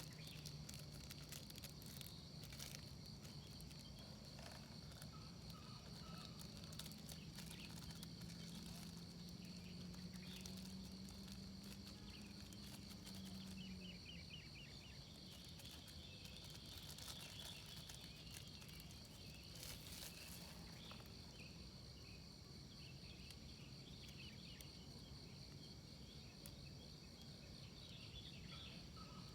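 Faint, steady insect chorus with some chirping. A low hum rises slightly in pitch and stops about halfway through.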